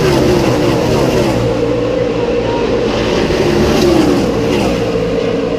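Field of NASCAR Camping World Truck Series trucks running at speed past the grandstand, their V8 engines blending into a continuous loud drone, with engine notes repeatedly sliding down in pitch as trucks go by.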